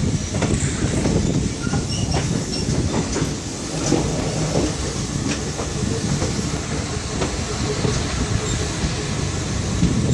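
Train running along the track: a steady low rumble of the wheels and cars, with scattered clicks from the wheels on the rails.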